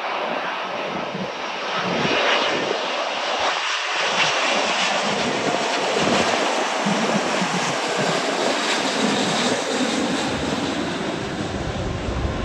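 Jet airliner's engines passing close by: a loud rushing noise that builds over the first two seconds and then holds, with a deep rumble coming in near the end.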